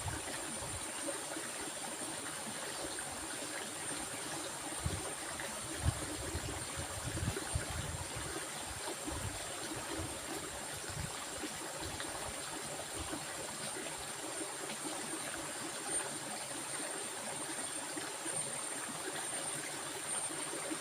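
Steady rush of flowing water, like a stream, with a few low thuds in the middle.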